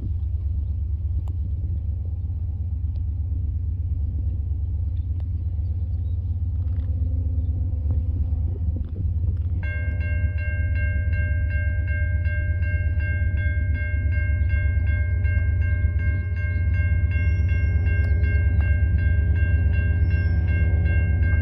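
Steady low rumble of a freight train, growing louder near the end. About ten seconds in, a railroad crossing's warning bell starts ringing rapidly and keeps on.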